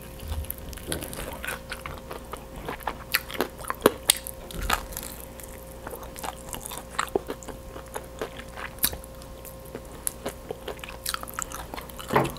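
Close-up eating sounds: biting and chewing crispy breaded fried chicken coated in melted cheese, with many short sharp crunches and wet mouth clicks scattered throughout. A faint steady hum runs underneath.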